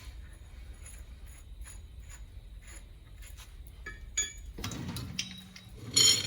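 Light metallic clinks and ticks as the wheel hub's spindle nut and washer are handled and threaded on, with a louder clatter of metal parts near the end.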